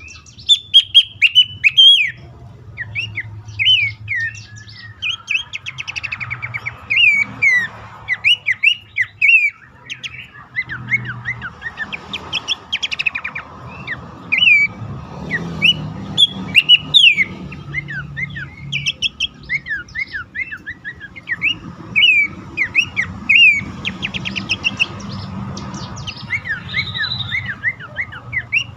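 Pelanduk semak (Horsfield's babbler) calling: runs of short, sharp, down-slurred notes repeated in quick succession, over a faint low hum.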